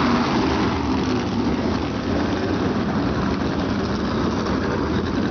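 Several USAC Silver Crown race cars' 360-cubic-inch alcohol-burning engines running together in a steady, dense din as the field is started.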